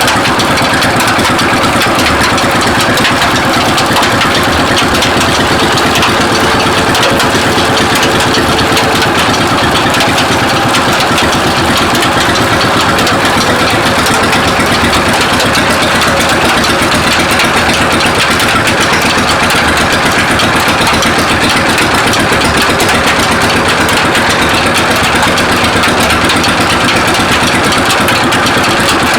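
Stationary single-cylinder 'Peter' diesel engine running steadily, driving a sugarcane crusher.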